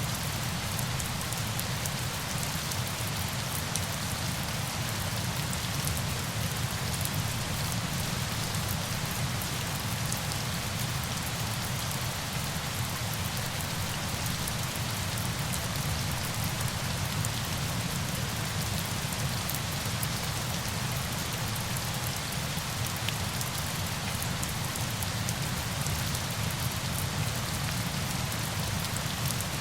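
Steady rain: an even, unbroken hiss of rainfall with a fine patter of drops and a low rumble underneath.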